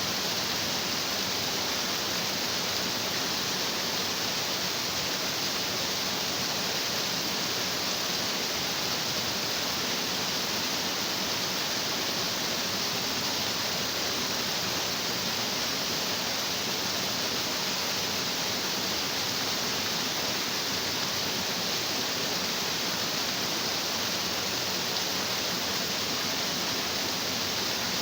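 A stream of water rushing over rocks, an even, steady hiss with no breaks or changes.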